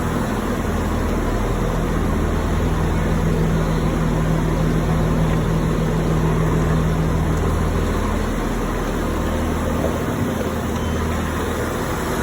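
Diesel train engine running steadily: a low, even hum over constant hiss.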